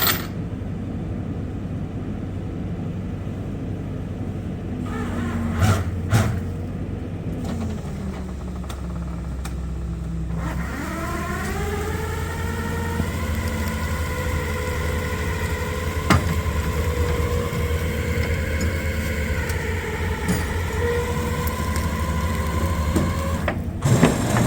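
A vehicle engine running steadily, then revving up about ten seconds in and held at high revs with a rising whine, under load as it drags a truck whose wheels will not turn via a block and tackle. A couple of knocks sound about six seconds in.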